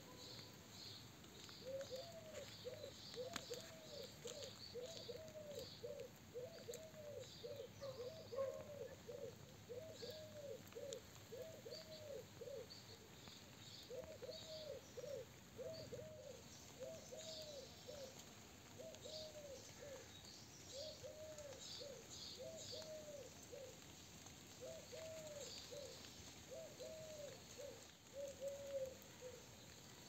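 Birds calling: one repeats short, low calls, about one and a half a second, in long runs with brief pauses, while a smaller bird chirps high above it now and then.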